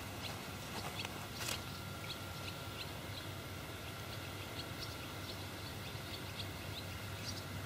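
Faint short bird chirps scattered over a steady outdoor background hiss, with one brief knock about a second and a half in.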